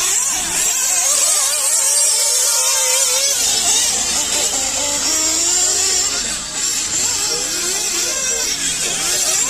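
Radio-controlled model racing trucks running round a track, their motors whining at a high pitch that rises and falls continuously as they accelerate and brake.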